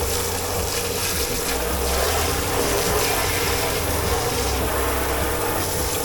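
Steady rush of running water in a dish pit over a constant machine hum, with no distinct knocks or clatters.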